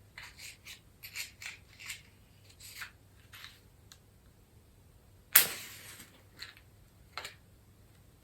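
A run of short dry scratches and rustles, then about five seconds in a match strikes and flares with a brief hiss, followed by a couple of light clicks: a candle being lit with a match.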